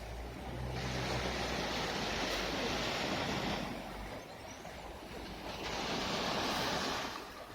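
Baltic Sea waves washing onto the shore, in two surges of a few seconds each. There is a low wind rumble on the microphone in the first few seconds.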